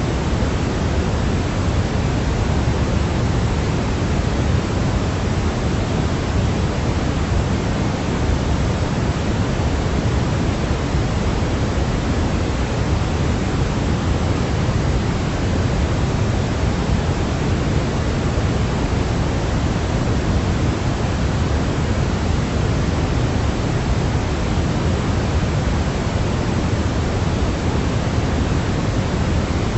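Steady, unchanging white-noise sleep track: an even hiss weighted toward the low end, like pink noise, with no breaks or changes.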